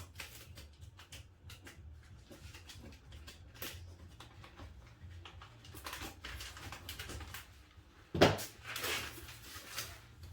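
Utility knife cutting cardboard: short scratchy strokes and clicks of the blade and card being handled. About eight seconds in there is a sharp knock, followed by a second or so of louder scraping.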